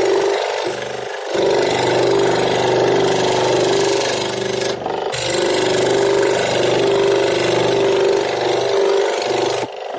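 A power tool running while working wood, in one steady stretch with short dips about a second in and about five seconds in, stopping just before the end.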